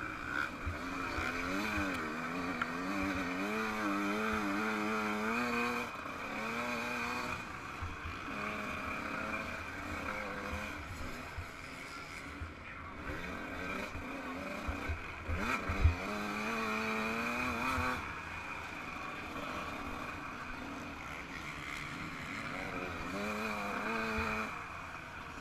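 Yamaha YZ125 two-stroke single-cylinder motocross engine revving up and down through the gears, its pitch rising and falling again and again, over a steady rush of noise. There is a sharp knock about two-thirds of the way in.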